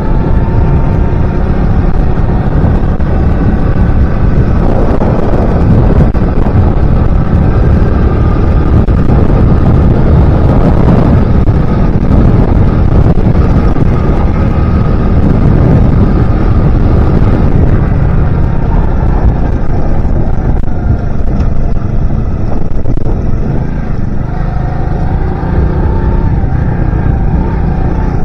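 Alpha 110 cc motorcycle's single-cylinder four-stroke engine running under way while being run in, its pitch drifting with speed and dipping then climbing again near the end, over a heavy low rumble.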